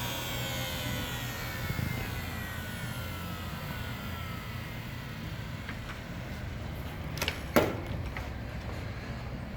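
Electric cutter motor of an end-of-lay fabric cutting machine winding down, its whine falling steadily in pitch and fading out over the first few seconds, leaving a low hum. A few light clicks follow, then a single sharp knock about seven and a half seconds in.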